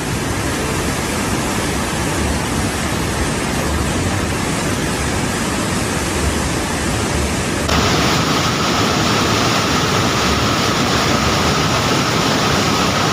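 Rushing floodwater, a loud steady rush of noise. About eight seconds in it cuts abruptly to a different recording of the same kind of rushing, with a thin steady high tone running over it.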